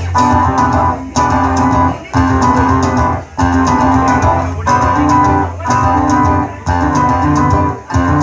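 A live rock band playing an instrumental passage led by guitars, in a stop-start rhythm that breaks off briefly about once a second.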